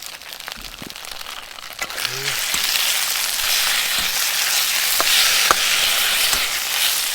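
Food frying in a hot iron wok: a loud sizzle starts about two seconds in and holds steady, with a few short clicks.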